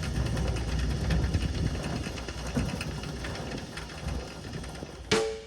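An engine running steadily with a low rumble and a light mechanical rattle, fading off, before music starts near the end.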